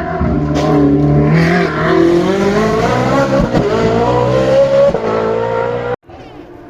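Hill-climb race car engine at full throttle, its pitch climbing as it pulls through the gears. It cuts off abruptly near the end, leaving a much fainter engine sound.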